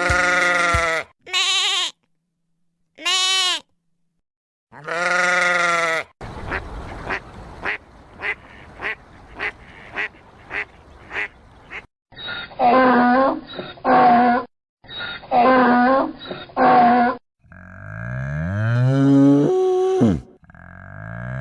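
A sequence of farm animal calls: several bleats, then a string of short grunts about two a second, then duck quacks in quick pairs, and near the end a cow mooing.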